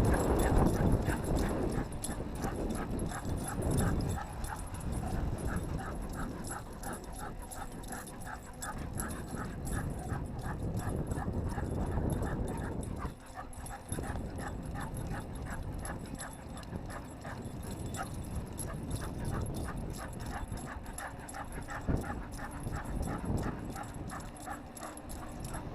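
Two dogs running hard while pulling a bicycle, with a quick regular rhythm of about three strokes a second over a low rumble.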